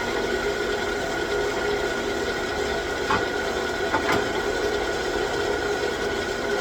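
9x20 gear-head engine lathe running under power, its gear train giving a steady whine over a constant mechanical hum, with two brief clicks about three and four seconds in.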